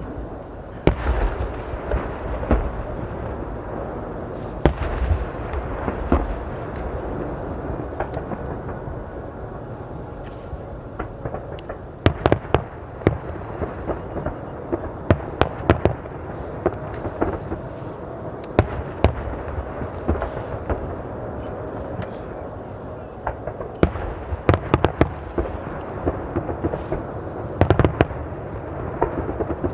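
Aerial fireworks bursting: a steady rumble of explosions with many sharp bangs and crackles, coming in quick clusters several times.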